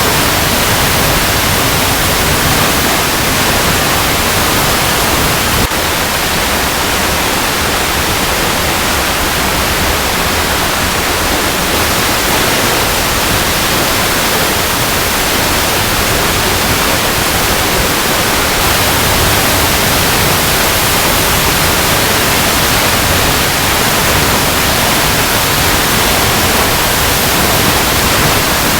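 Waterfall cascading over rocks: a loud, steady, even rush of falling water, dipping slightly in level about six seconds in.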